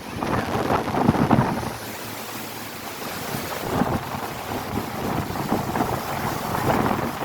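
Hurricane wind gusting and buffeting the microphone, loud and irregular for the first second and a half, then a steadier rushing hiss.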